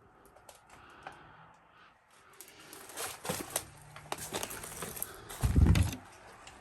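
Footsteps crunching and creaking over debris-strewn floorboards, a run of irregular crackles and clicks, with one heavy thud near the end.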